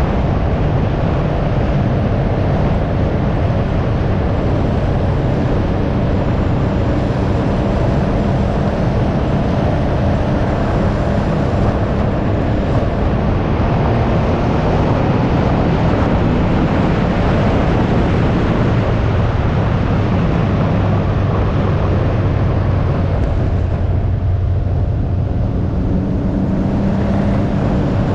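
Can-Am Ryker 900's three-cylinder Rotax engine running steadily under way, with heavy wind noise on the microphone. The wind hiss eases briefly near the end.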